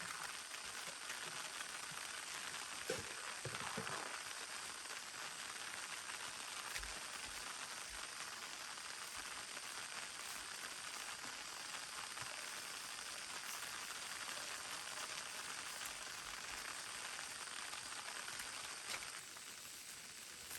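Steady rain falling, a constant hiss, with a couple of soft knocks a few seconds in.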